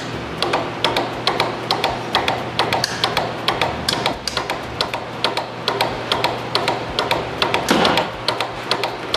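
Two-cylinder Papp-style engine replica being turned over by a DC gear motor, its mechanism clicking rapidly, several sharp ticks a second over a steady low hum, with a brief whoosh near the end.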